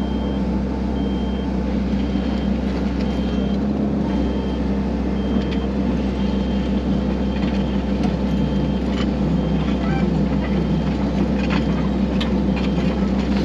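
Diesel engine of a tracked excavator running steadily under load, with its travel alarm beeping about twice a second as the machine walks. A few metal clanks sound in the second half.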